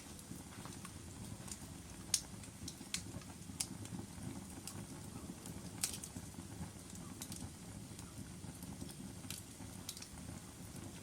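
Logs burning in a fireplace: a low steady rumble of the flames with irregular sharp crackles and pops, the loudest about two and six seconds in.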